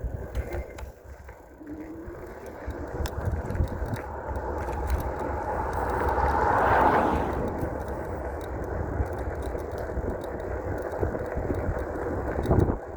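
A car driving past on the road, its tyre and engine noise building to a peak about halfway through and then fading away, over a steady low rumble of wind on the microphone.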